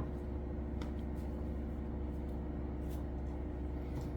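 Steady low machine hum with several fixed tones, and a few faint light clicks.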